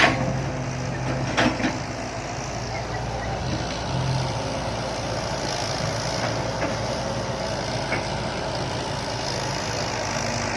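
Heavy diesel engine running steadily, with a sharp knock at the start and two more about a second and a half in.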